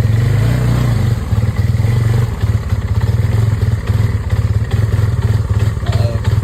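Small off-road vehicle engine running under load, with an uneven, pulsing level.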